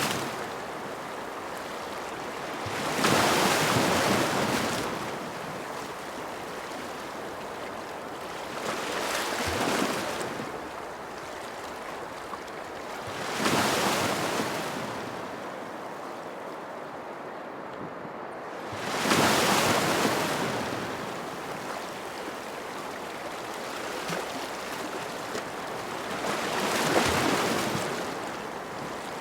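Ocean waves breaking on a shore, five times, one every five to seven seconds: each surf surges up into a loud hiss and washes back down to a steady, quieter rush between breakers.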